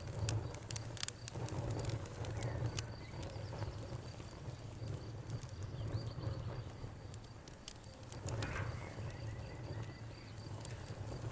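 Wood fire crackling with scattered sharp pops, thickest in the first few seconds, over the steady chirping of crickets and a constant low rumble.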